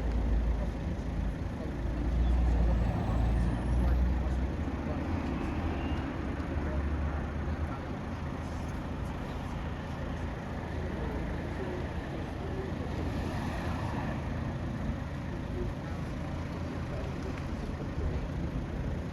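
Road traffic noise, with a heavy vehicle's low engine rumble that fades out after about seven seconds, leaving a steady background traffic hum.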